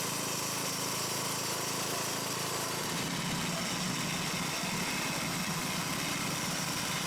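Small engine-driven saw running steadily under load, straightening the crooked edges of planks.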